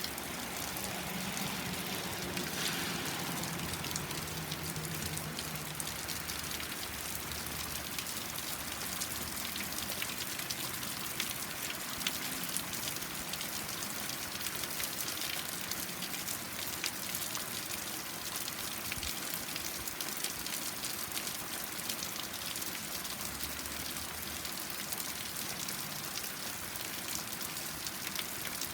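Steady rain falling, an even hiss with many individual drops ticking as they land.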